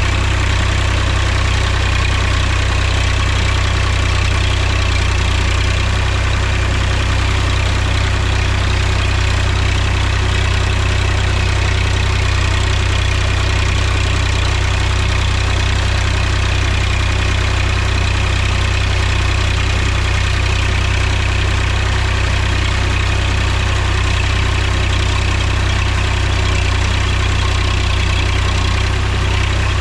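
Mahindra tractor's diesel engine running steadily, a constant low drone that does not rise or fall.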